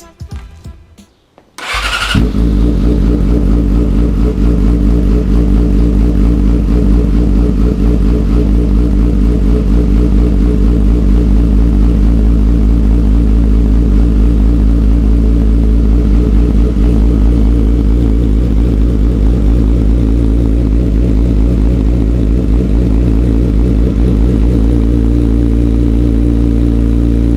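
Yamaha R6 sport bike's inline-four engine starting about two seconds in and then running steadily, just after a fresh oil change.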